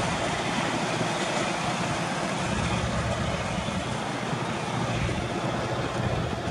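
Rail excursion train running away around a curve: a steady rumble and rattle of carriages on the track, slowly fading.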